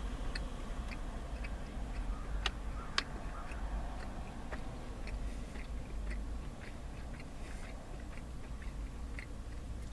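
A person chewing beef jerky, with many small irregular mouth clicks and two sharper clicks about two and a half and three seconds in.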